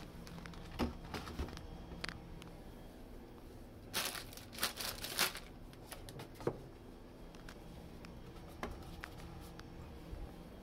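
Plastic packaging crinkling and rustling while food items are handled, with scattered light knocks. The loudest bout of rustling comes about four to five seconds in.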